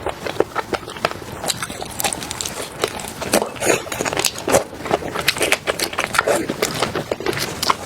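Close-miked eating: a person biting and chewing food, with a dense run of wet, crackly mouth clicks.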